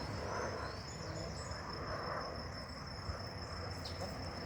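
Insects trilling steadily in the background, one constant high-pitched tone, with faint low outdoor ambience underneath.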